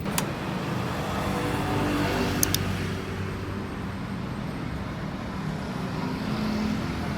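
Road traffic: vehicle engines running steadily, swelling as one passes about two seconds in. Sharp clicks come just after the start and twice about two and a half seconds in.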